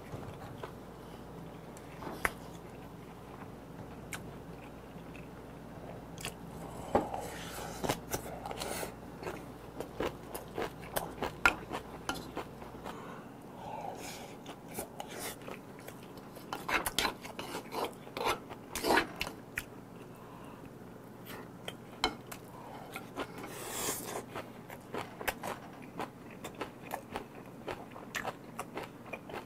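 Close-up mouth sounds of a person chewing and eating eel and rice, with a metal spoon clicking and scraping against a ceramic bowl. Many small irregular clicks, with a few louder clusters along the way.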